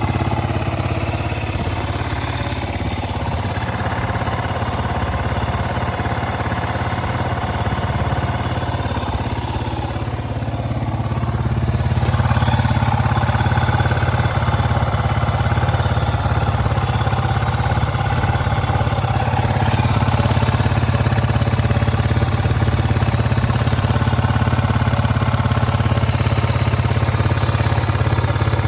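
Yamaha Serow 225's air-cooled single-cylinder four-stroke engine idling steadily, a little louder from about twelve seconds in.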